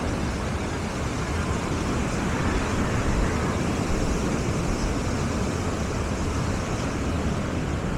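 Steady seaside ambience of a busy beach: a continuous wash of surf, with wind rumbling on the microphone.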